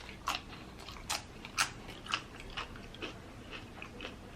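A person chewing food close to the microphone, with crisp crunching clicks about twice a second that grow fainter.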